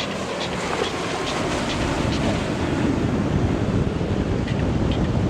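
Powerboat engines rumbling steadily as a boat runs through the inlet, slowly growing louder, over the wash of choppy water and wind.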